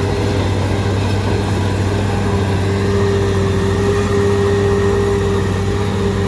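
Shantui DH17C3 bulldozer's diesel engine running steadily, with a low drone and a constant whine over it.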